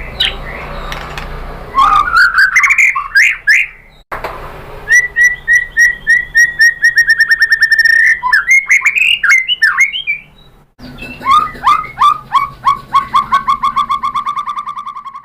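White-rumped shama (murai batu) singing loud whistled phrases and long, fast trills of rapidly repeated notes, broken by two abrupt breaks.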